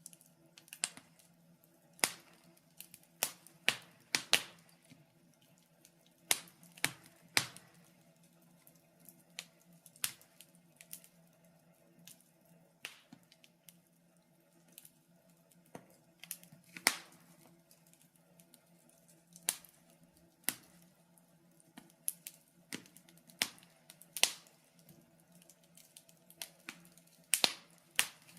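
Wood fire crackling: irregular sharp snaps and pops, about one a second, some in quick clusters and some much louder than others.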